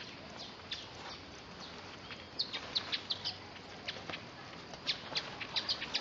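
Small birds chirping: quick runs of short, high chirps, busiest about halfway through and again near the end, over a faint outdoor background.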